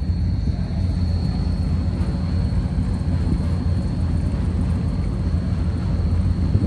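Steady low drone of a vehicle cruising at an even speed, with no revving, and a faint high steady whine above it.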